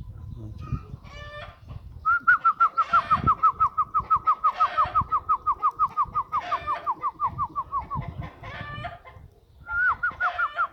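A bird calling: a long run of rapid, evenly spaced notes, about six a second, for some six seconds, starting again near the end, with shorter calls in between.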